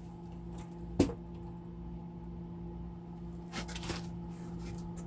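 Microwave oven running with a steady mains-frequency hum. There is a sharp click about a second in and a few soft knocks a little past halfway.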